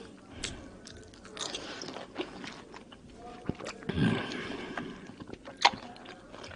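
Chewing of mandarin orange segments, with scattered sharp mouth clicks, a louder burst about four seconds in, and one sharp click near the end.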